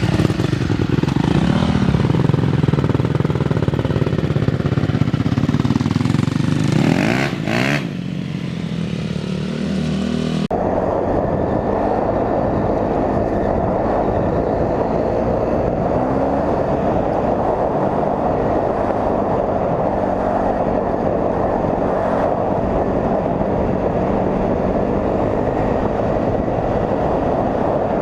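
Dirt bike engines revving and pulling away, the pitch rising and falling. About ten seconds in, the sound cuts abruptly to a steady engine drone with a hiss, as from a bike being ridden.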